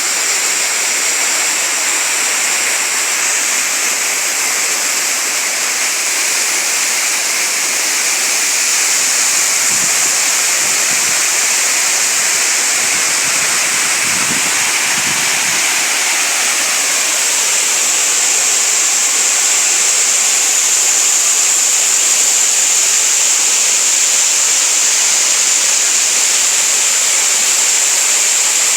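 Waterfall crashing and water rushing over rocks in a steady, dense hiss.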